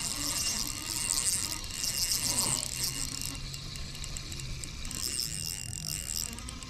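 Shimano Stradic 2500 spinning reel being worked while a hooked bass is fought in: a steady mechanical whirring and fine clicking from the reel.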